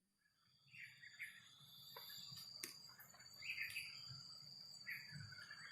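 Faint wild birds chirping in short groups of calls, over a steady thin high-pitched background tone, with two faint clicks in the middle.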